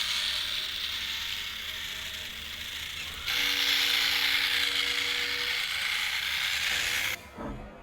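Small geared electric motor whirring steadily. It gets louder about three seconds in, then cuts off suddenly near the end, followed by a short knock.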